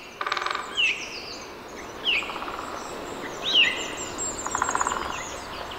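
Wild birds calling: one bird repeats a short, falling call about every second and a half, another gives a rapid trill twice, and smaller high chirps sound in the background.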